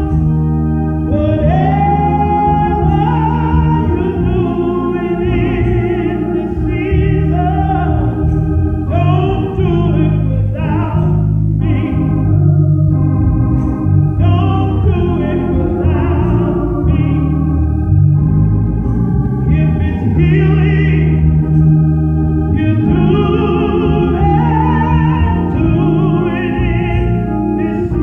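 Organ holding sustained chords while a voice sings over it in a slow, gospel-style church song.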